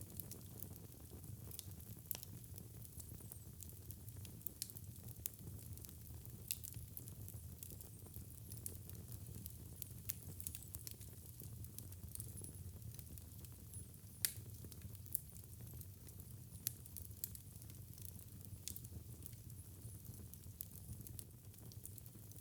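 Fireplace fire crackling: scattered sharp pops and snaps over a low steady rumble, with one louder pop about 14 seconds in.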